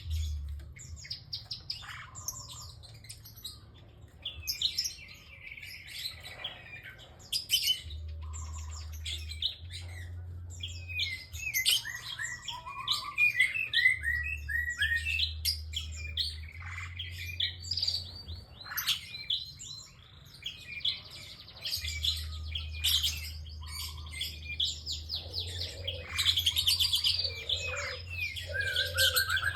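Prinia (prenjak) calling continuously, fast runs of sharp, high chirps and trills with barely a pause. A low hum comes and goes underneath.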